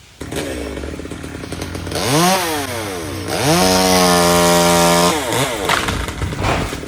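Two-stroke chainsaw idling, then revved up and let back down once, then revved to full throttle and held there for about a second and a half before dropping back to idle.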